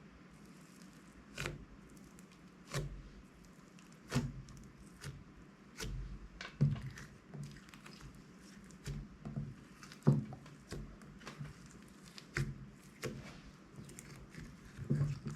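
Slime being squished and pressed by hand, giving irregular sharp clicks and pops, sparse at first and coming more often from about six seconds in.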